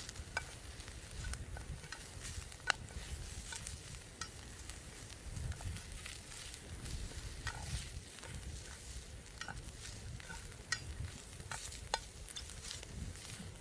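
Calabresa sausage frying in a pan over a campfire: a steady sizzle with scattered sharp pops.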